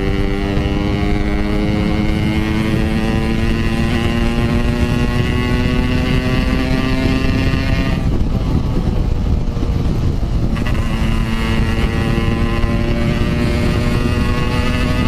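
Yamaha RX-King 135cc two-stroke single engine ridden hard: the revs climb steadily for about eight seconds, drop away for about two seconds as the throttle comes off, then pick up again at a lower pitch and climb once more. Heavy wind rush on the helmet camera throughout.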